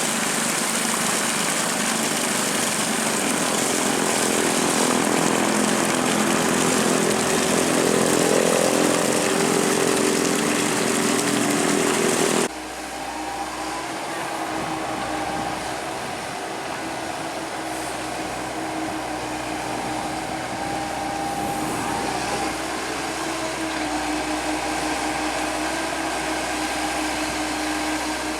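Hydraulic excavator's diesel engine running hard, a busy, noisy engine sound. About twelve seconds in it cuts off abruptly to a quieter, steady engine hum.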